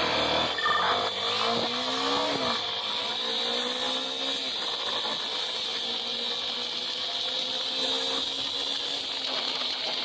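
Small motorcycle engine revving up in the first few seconds, its pitch climbing, then running at a steady pitch under a constant rush of wind and road noise.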